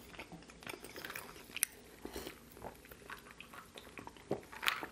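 Close-miked chewing of a mouthful of fried chicken and mac and cheese: soft wet mouth clicks and small crunches. Near the end, a few louder mouth sounds as he drinks from a glass.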